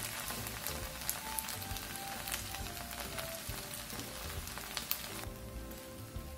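Chive pancake batter frying in hot oil in a pan: a steady sizzle full of small crackles over light background music. The sizzle drops away about five seconds in.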